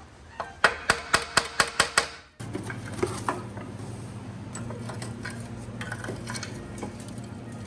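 A quick run of about seven sharp metallic strikes, roughly four a second, tools or a hammer on motorcycle parts during strip-down. After an abrupt cut, a steady low hum with scattered fainter metal clinks.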